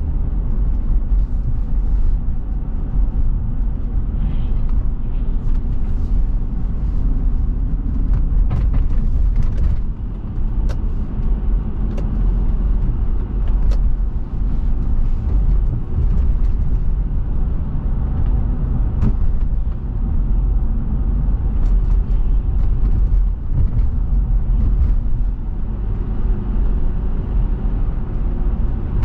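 Car driving, heard from inside: a steady low road and engine rumble with tyre noise and a few faint clicks and rattles.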